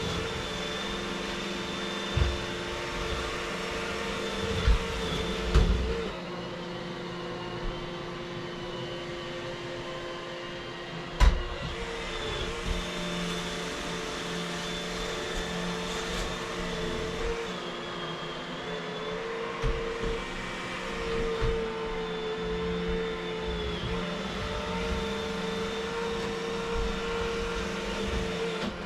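Vacuum cleaner running steadily, its motor hum shifting slightly in pitch now and then, with occasional bumps and one sharp knock about eleven seconds in.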